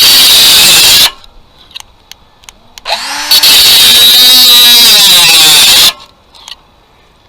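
Parkside PWSA 12-Li A1 12 V cordless 76 mm mini angle grinder running its disc against the workpiece in two loud bursts. The first stops about a second in; the motor then spins up again with a rising whine and the disc cuts for about two and a half seconds before stopping.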